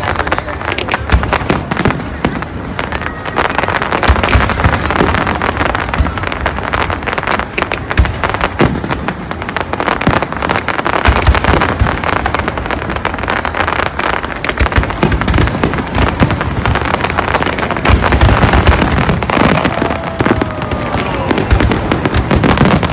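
Fireworks display: a dense, continuous run of bangs and crackling, with deep booms scattered through it.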